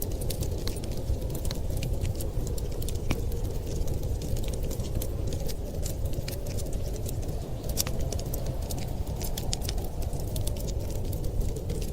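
Wood fire crackling in a fireplace, with frequent sharp irregular pops and snaps over a steady low rumble.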